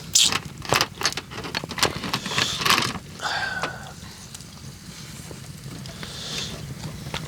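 Spoons and chopsticks clicking and scraping against bowls and dishes during a meal: a quick run of knocks in the first three seconds, then quieter over a steady low hum.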